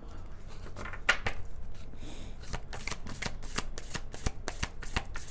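A deck of tarot cards being shuffled by hand: a run of short papery slaps and clicks, sparse at first and then about three or four a second in the second half.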